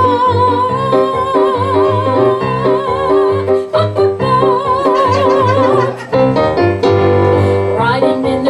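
A woman's singing voice holding long wavering notes without words, twice, over a steady rhythmic accompaniment, in a live performance of an original song.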